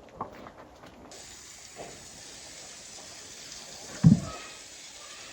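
A steady rush of running water begins suddenly about a second in. A single dull thump comes near the end.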